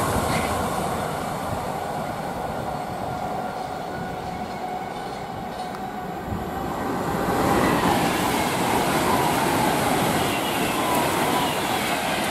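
Container freight train on the main line, its wagons rumbling and clattering over the rails and fading as it draws away. About seven seconds in, a louder passing train takes over, a Pendolino express, with a faint whine that slowly falls in pitch.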